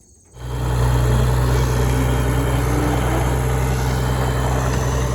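Tractor's diesel engine running at a steady speed, with a deep, even hum; it comes in suddenly about half a second in.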